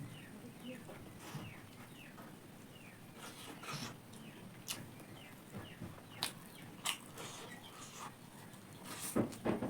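Short falling chirps repeating every half second or so, like small birds chirping, over the first few seconds. Scattered sharp mouth clicks and smacks of someone eating follow, the loudest a couple near the end.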